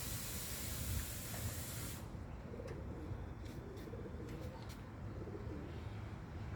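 Pigeons cooing softly, a few low wavering coos, after a steady hiss that cuts off suddenly about two seconds in; a few faint clicks among the coos.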